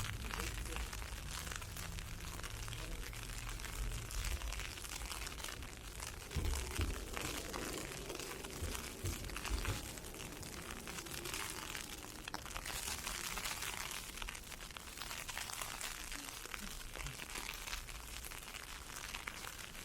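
Dense crackling hiss of wind-blown ice pellets striking, mixed with footsteps crunching through snow and ice, with a low rumble in the first couple of seconds.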